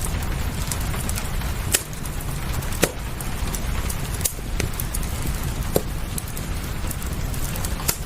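Wood fire crackling in a fireplace, with about five sharp pops scattered through a steady low rumble and hiss that holds rain.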